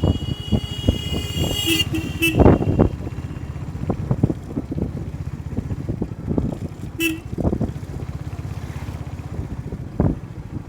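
Road traffic heard from a moving motorcycle: a steady engine and wind rumble, with vehicle horns honking. A long high honk lasts about two seconds at the start, with short toots just after two seconds and again about seven seconds in.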